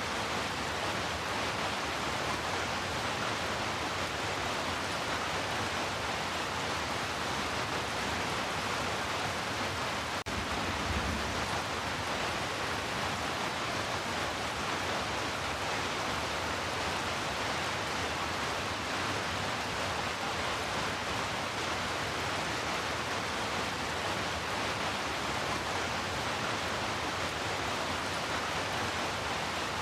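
Heavy rain falling as a steady, even hiss, with a brief low rumble about ten seconds in.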